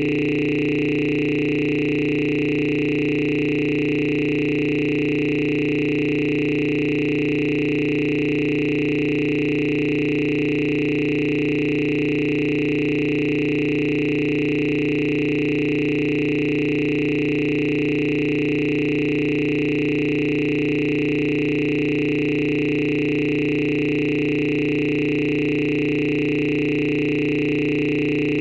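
A steady electronic drone of several held tones, low and high together, that never changes or breaks.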